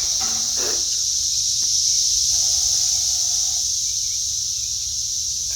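Chorus of cicadas buzzing in a steady, high-pitched, unbroken drone.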